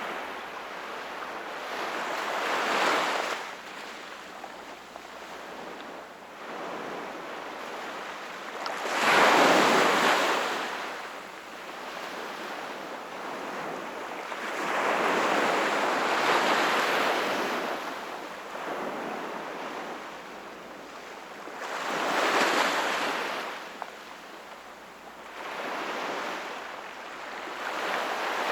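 Sea waves breaking on the shore, each a wash of surf that swells and fades, about every six seconds, with the strongest wave about nine seconds in.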